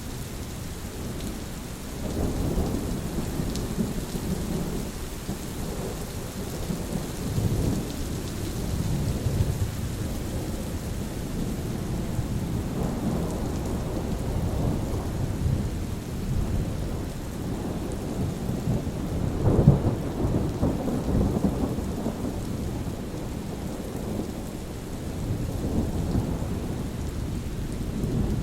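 Steady rain falling with rolling thunder rumbling low underneath, swelling and fading several times; the loudest roll comes about two-thirds of the way through.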